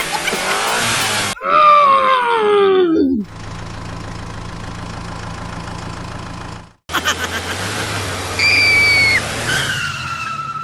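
Vehicle engine sounds in short, abruptly cut pieces. First a pitched sound glides steeply down over about two seconds, then a steady low engine hum cuts off suddenly near seven seconds. It resumes with a high tone that falls slightly near the end.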